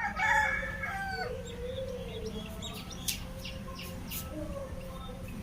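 Birds calling: a loud, drawn-out call in about the first second, then fainter calls and a run of short, sharp, high chirps near the middle, over a steady low hum.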